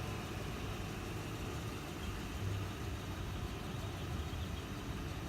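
Ford Crown Victoria's 4.6-litre V8 idling steadily while warming up.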